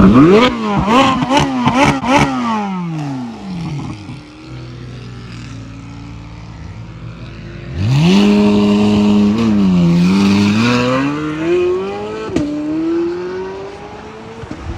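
A car engine being revved at a standstill: several quick blips of the throttle, each climbing and falling, then it settles to idle. Then it is held at high revs for a few seconds, dips and rises again, and falls away before a slower climb near the end.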